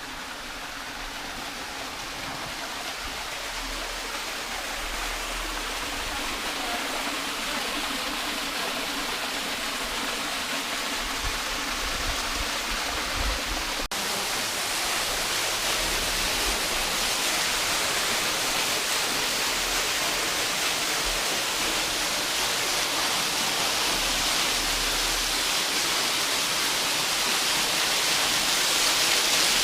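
Waterfall splashing, a steady rush of falling water that grows steadily louder; the falls are Glory Hole Falls, where a creek pours down through a hole in a rock overhang.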